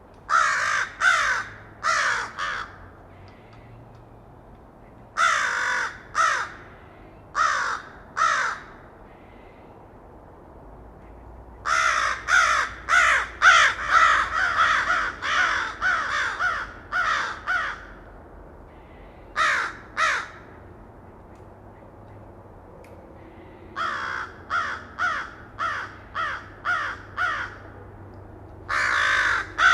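A bird giving loud, harsh calls, each dropping in pitch. They come in bouts of two or three, with one long run of about a dozen quick calls in the middle and several more near the end.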